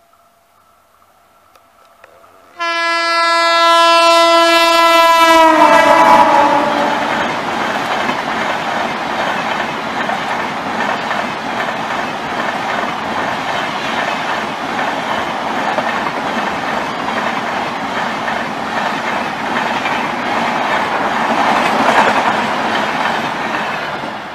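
Indian Railways electric locomotive sounding its horn as it approaches at speed: faint at first, then loud about two and a half seconds in. The pitch drops as it passes. Its coaches then rush by on the rails with a steady rumble and clickety-clack, fading near the end.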